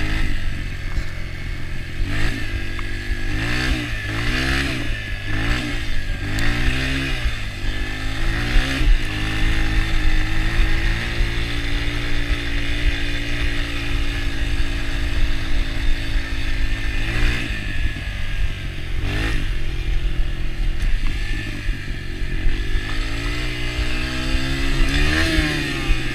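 Yamaha TT-R125 dirt bike's single-cylinder four-stroke engine under way on a trail, its pitch rising and falling repeatedly through the first several seconds, holding steady for several seconds in the middle, then rising and falling again near the end.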